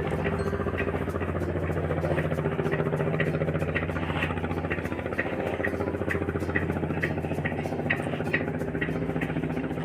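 A boat's engine running steadily, with a light regular ticking about twice a second on top.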